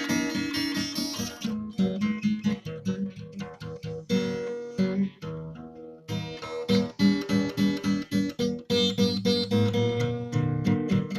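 Acoustic guitar playing, a quick run of plucked notes mixed with strummed chords.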